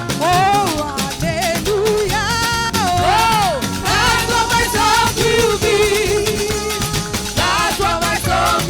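Choir singing an upbeat praise song over a live band with steady percussion, the voices sliding and wavering in pitch.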